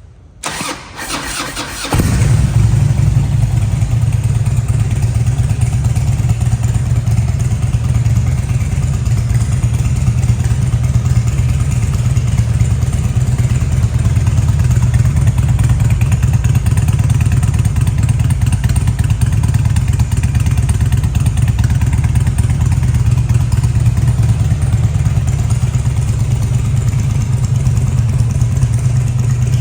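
2003 Harley-Davidson Ultra Classic's fuel-injected Twin Cam 88 V-twin, with a Stage 1 tune and Rinehart exhaust, turning over on the starter for about a second and a half, catching about two seconds in, then idling steadily.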